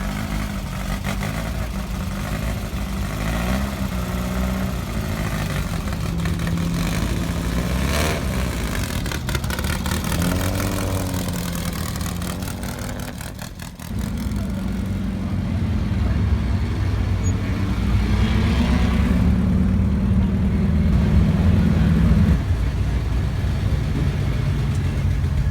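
Car engines running at low revs: a steady low hum that shifts in pitch now and then. About halfway through it dips briefly, then a louder engine runs steadily.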